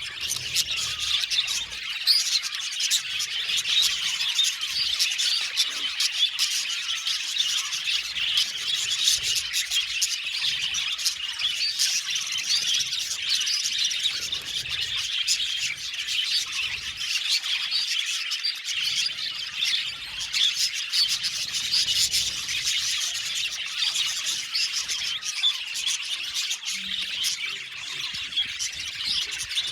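A colony of budgerigars chattering and chirping, many birds calling at once in a dense, continuous twittering.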